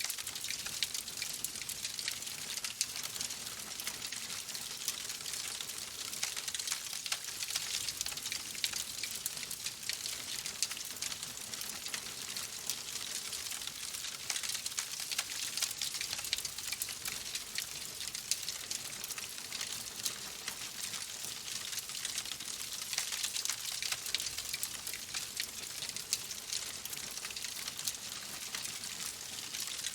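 Wood fire crackling: a steady hiss thick with small quick pops and snaps.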